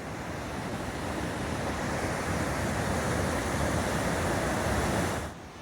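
Steady rushing of a waterfall's falling water, an even noise with no pitch, dropping to a quieter level about five seconds in.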